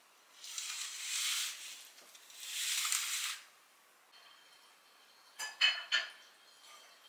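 Kitchen utensils at work: two scraping strokes about a second long each, then a few quick clinks of metal on a dish just before the end.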